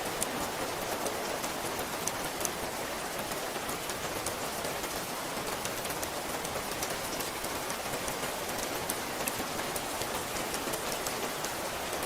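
Steady rain falling: an even hiss with many individual drops ticking sharply through it.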